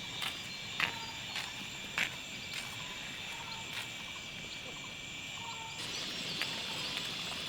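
Forest ambience: a steady high-pitched drone of insects such as cicadas or crickets, with a few short bird chirps and light footsteps ticking along at a walking pace. About six seconds in, one strand of the insect drone drops out and the background hiss grows a little.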